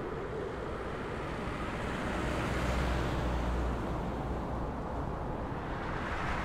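Wind blowing outdoors: a steady rushing noise with low buffeting on the microphone, swelling briefly near the end.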